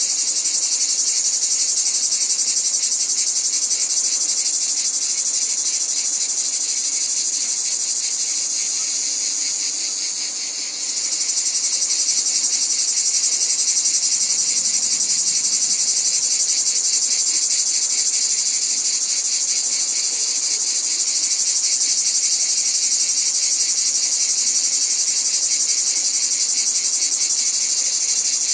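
A dense chorus of insects trilling steadily in a high, fine-pulsed buzz. About ten seconds in it grows slightly softer, then comes back at full strength abruptly.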